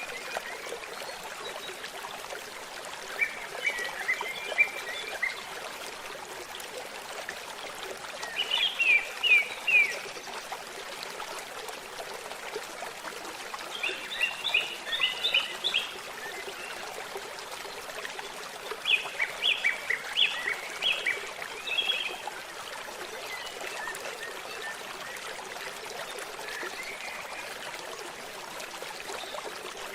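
Babbling stream running steadily, with a songbird singing short phrases of quick chirping notes every five seconds or so.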